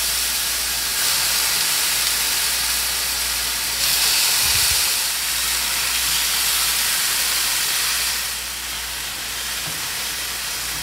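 Tomato slices sizzling as they are set into a hot stainless-steel skillet, with steam hissing off the pan. The sizzle surges about a second in and again near four seconds as more slices go in, then eases off somewhat near the end.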